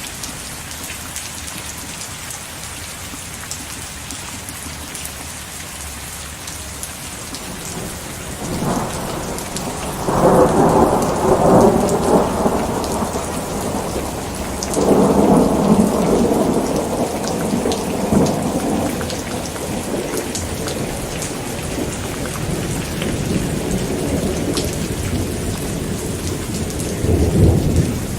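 Steady rain with thunder rolling in: a rumble builds about eight seconds in, peaks twice, and swells again near the end.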